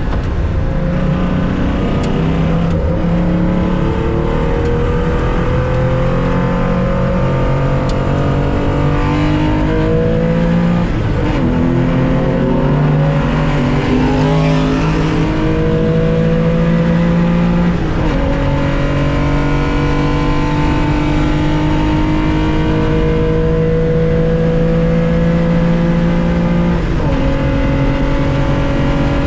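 Onboard sound of a 1965 Porsche 911 2.0's air-cooled flat-six under hard acceleration, its pitch climbing steadily through each gear. Three upshifts, at about a third of the way in, at about two thirds, and near the end, each dropping the pitch before it climbs again.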